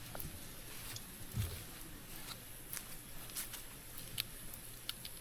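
Campfire crackling: wood burning with a faint hiss and scattered sharp pops and snaps, plus one soft low thump about a second and a half in.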